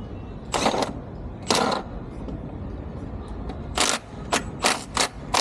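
Several sharp clicks and knocks at irregular intervals, two near the start and a quicker cluster near the end, over a low steady background rumble.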